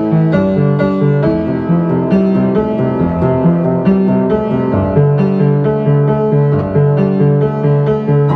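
Solo piano playing continuously, a repeating figure of low notes under a moving melody higher up.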